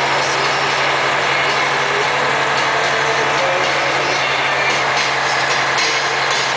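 Vehicle driving on a snow-covered highway: a steady engine hum under even road and tyre noise.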